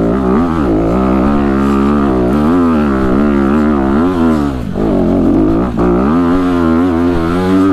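Dirt bike engine revving, its pitch rising and falling again and again as the throttle is worked.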